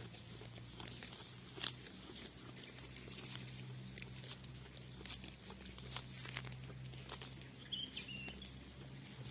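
Faint rural outdoor ambience: scattered light taps and clicks over a low steady hum, with one short high chirp about eight seconds in.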